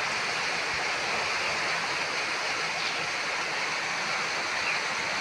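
Steady rushing of water: rain and runoff flowing over a flooded street.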